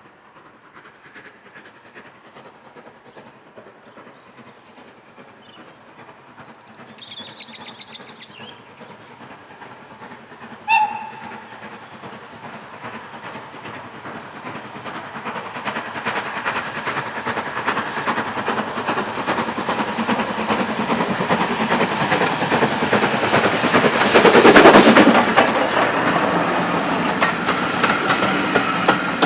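A steam-hauled train approaches and passes, growing steadily louder and at its loudest about 24 seconds in, with wheels rattling over the rail joints. A brief high toot sounds about 11 seconds in.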